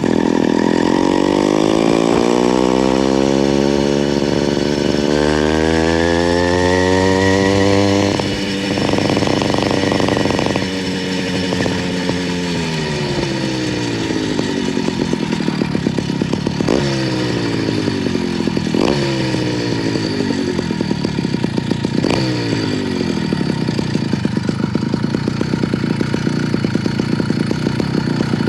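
Small motorized-bicycle engine running under way: it revs up steadily for about eight seconds, holds a high pitch briefly, then drops back. After that come a few short bursts of throttle that rise and fall quickly, and it settles into a lower, pulsing run near the end.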